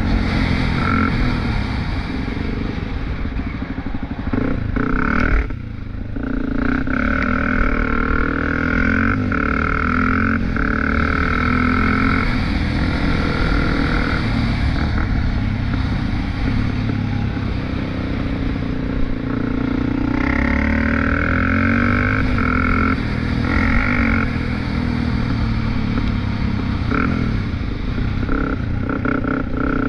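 Small off-road vehicle engine running hard and revving, its pitch rising and falling again and again, with a brief drop about five and a half seconds in.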